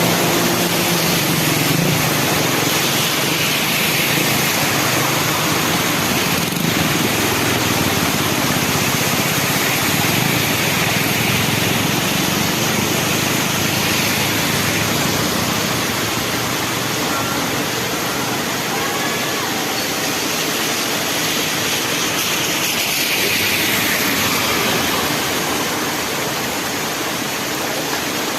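Heavy rain, a loud steady hiss, with a Yamaha Crypton motorcycle engine running underneath it through roughly the first half, fading out after that.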